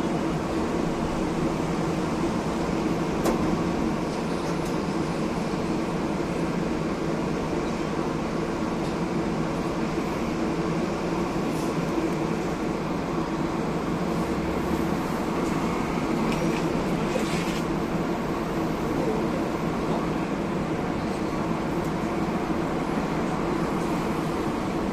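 Interior running noise of a Hiroden 1000-series "Green Mover LEX" low-floor tram with a Toyo Denki IGBT inverter drive: a steady hum and rumble of the car, with a few light clicks.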